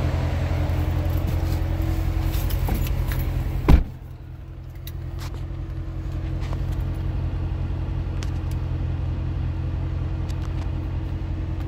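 2014 Chevrolet Corvette Stingray's 6.2-litre V8 idling with a steady low hum, heard from the cabin. About four seconds in the door shuts with a heavy thump, after which the sound is quieter and duller.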